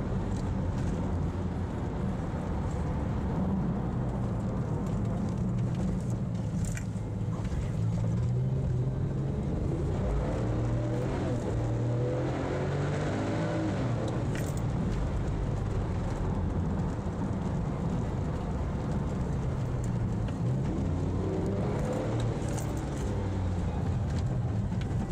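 Porsche 911 (997) Turbo's twin-turbo flat-six running under load over a steady deep rumble. Its pitch rises and falls with the revs a few times, most clearly about halfway through and again near the end.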